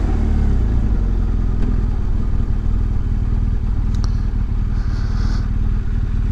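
2018 BMW R1200GS Adventure's boxer-twin engine running steadily at low town speed, a low drone. A couple of sharp clicks come about four seconds in, then a short hiss.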